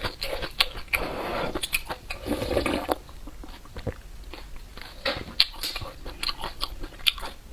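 A person slurping spicy instant-noodle soup in a noisy rush, then chewing with scattered wet smacks and clicks.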